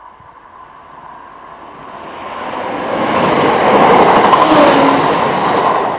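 Class 170 Turbostar diesel multiple unit approaching and passing close by at speed. It makes a rush of noise that builds from about two seconds in, is loudest in the middle, and eases near the end.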